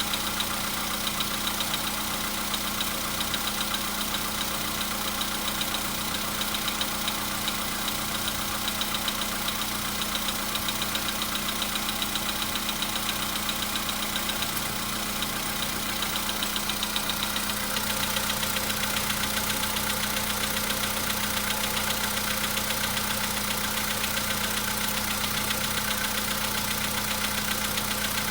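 Volkswagen Polo Sedan's 1.6-litre CFNA four-cylinder petrol engine idling cold, with a fast, even knocking coming through the idle. The knock sets in as the cold engine runs.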